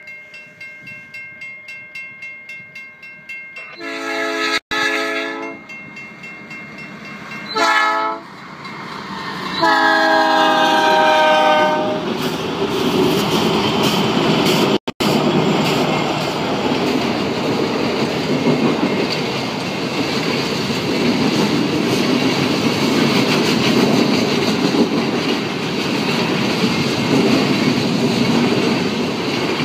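Level-crossing bell ringing about twice a second. Then the horn of a CN freight train's lead C44-9W locomotive sounds for the crossing: a long blast, a short one, and a longer one that drops in pitch as the locomotives pass. After that the 52-car freight train rolls by at about 40 mph, its wheels clicking over the rail joints.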